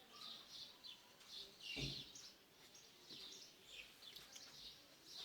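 Faint chirping of small birds: short, high chirps scattered through the background, with a soft thump a little under two seconds in.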